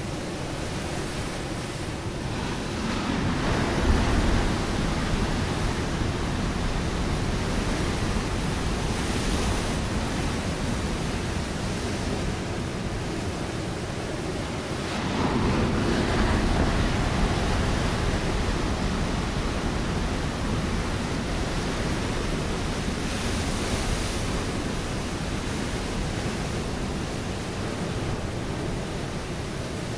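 Ocean waves breaking on a rocky shore, a continuous wash of surf with two larger waves surging in, one about four seconds in and another about sixteen seconds in.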